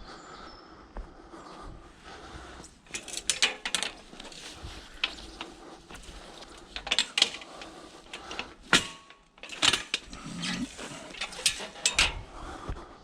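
Scrap being shifted and packed into the back of a van: irregular knocks, clanks and rattles, with the sharpest hits between about seven and ten seconds in.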